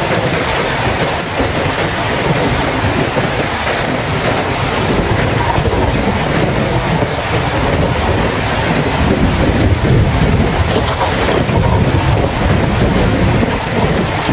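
Heavy rain falling steadily, with a deep rumble of thunder underneath that swells a little in the second half.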